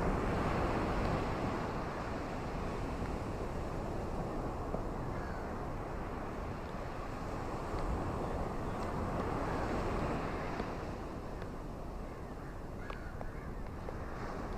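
Ocean waves washing onto a beach, with wind across the microphone; the surf swells at the start and again about two-thirds of the way through, then eases.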